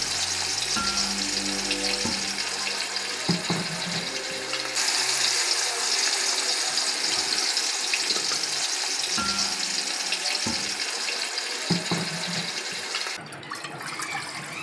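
Chicken and masala sizzling in a clay pot while being stirred with a wooden spoon, a steady hiss with a few knocks as the spoon strikes the pot. Background music plays, and the hiss drops off near the end.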